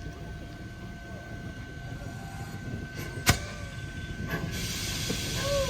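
Train on the move with a steady low rumble, one sharp knock a little over three seconds in, and a hiss building from about four and a half seconds.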